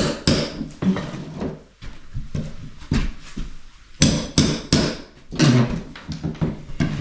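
Hammering: irregular runs of sharp hammer blows, with three quick strikes in a row about four seconds in.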